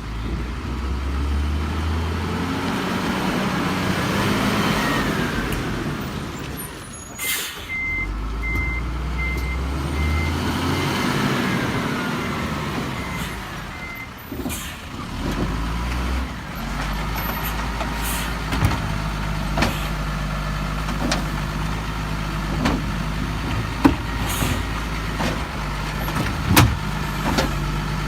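Garbage truck's diesel engine revving up twice and falling back, with a short air hiss and then a reversing beeper sounding for several seconds. The engine then runs steadily, with a series of light knocks toward the end.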